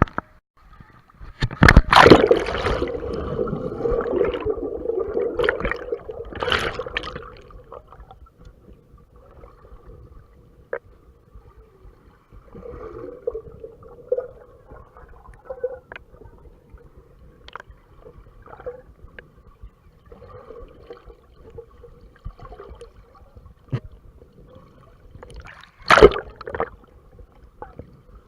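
Lazy-river water sloshing and gurgling around a GoPro in its waterproof case, sounding muffled through the housing. A loud stretch of splashing runs from about two to seven seconds in, then it settles to quieter lapping, with one more brief splash near the end.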